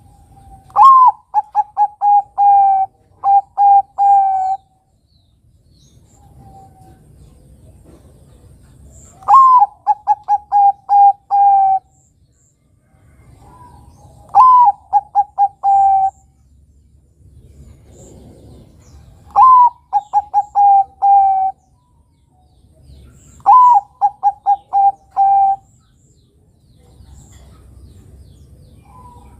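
Zebra dove (perkutut) of the Bangkok song strain cooing. There are five song phrases, each opening with a rising note followed by a quick run of short coos, repeating about every five seconds.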